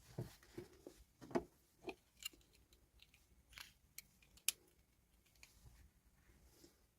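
Quiet, irregular clicks and soft knocks from hands handling small plastic toy pieces and packaging, with a handful of sharp snaps, the loudest about one and a half seconds in and again near the middle.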